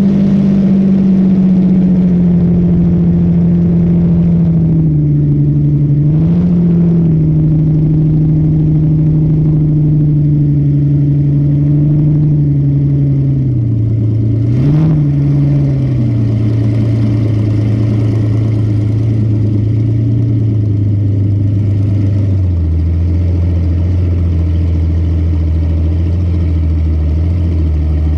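Boat engine running loud and steady, its pitch stepping down several times as it slows, with two short blips of throttle about six and fifteen seconds in.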